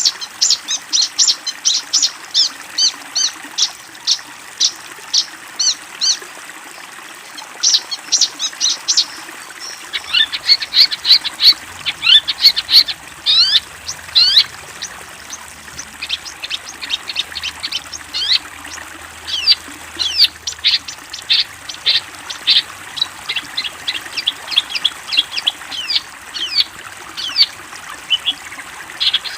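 A bird calling in rapid runs of short, sharp, high notes that sweep quickly in pitch, with brief pauses between runs.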